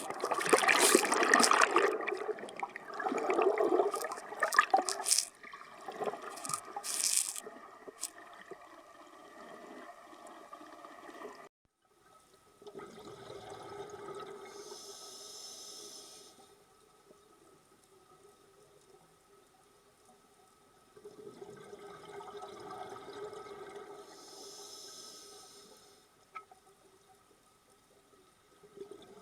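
Water rushing and splashing, loudest in the first few seconds, then two shorter, quieter whooshing spells of water later on.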